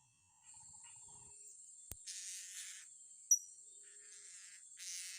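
Steady high-pitched insect drone, with two spells of hiss and one short, sharp high chirp about three seconds in.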